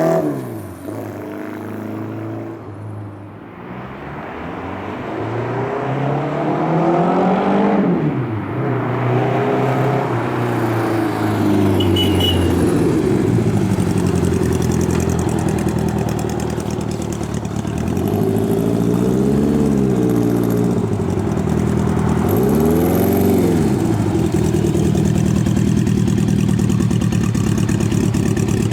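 Honda Gold Wing cafe-custom motorcycle engine being ridden: its note drops and fades as it pulls away, climbs and swells again with a rev about six to eight seconds in, then runs close and steady with two short throttle blips later on.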